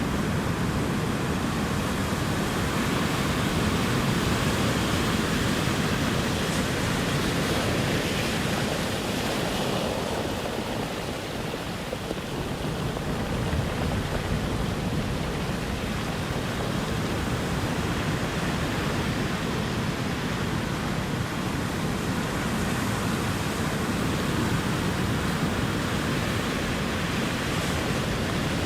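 Ocean surf: a continuous wash of breaking waves, swelling and easing gently, with a slight lull about a third of the way in.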